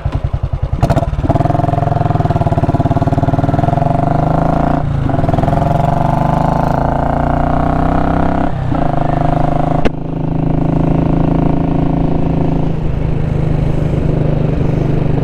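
Royal Enfield Classic 500's single-cylinder engine thudding at idle, then pulling away about a second in, with two short breaks in the pull as it shifts up, and running at a steady speed after that. Its exhaust is run without a baffle.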